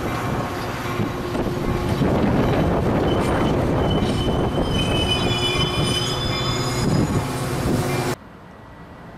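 Bilevel commuter train coaches rolling past, with a steady rumble and clatter of wheels on rail. High-pitched squealing joins from about three seconds in and fades near seven seconds. The sound cuts off abruptly about eight seconds in, leaving a much quieter background.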